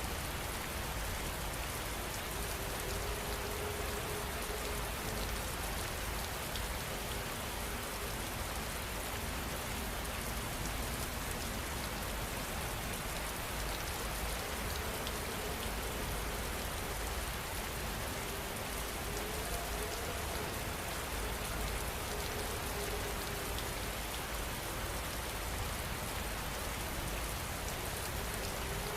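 Heavy rain falling steadily, an even rushing hiss of drops on surfaces.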